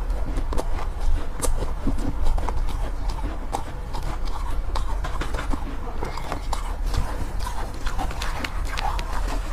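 Close-miked biting and chewing of soft, powdery ice: irregular crisp crunches, several a second, over a steady low rumble.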